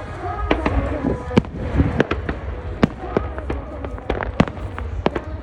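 Fireworks crackling and popping, many sharp cracks in quick irregular succession over a low rumble.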